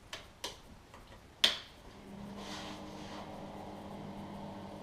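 A few sharp clicks, the loudest about a second and a half in, then a steady low electrical hum that starts about two seconds in and holds.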